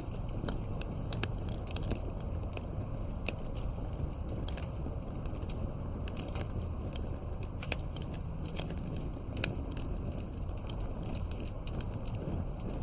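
Campfire burning steadily, wood crackling and popping in frequent irregular sharp snaps over a low, even rush of flame.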